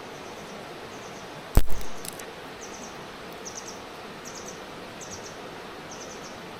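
A single sharp knock about a second and a half in, followed quickly by a couple of lighter clicks, over a steady background hiss. A short high chirp repeats about every two-thirds of a second.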